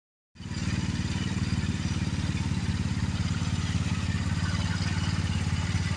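Small engine of a 2019 Roketa 180cc running steadily at an even speed, with a low, rapid pulsing exhaust note that does not rise or fall.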